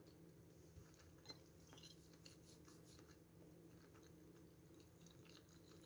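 Near silence: faint chewing with a few small mouth clicks over a low steady room hum.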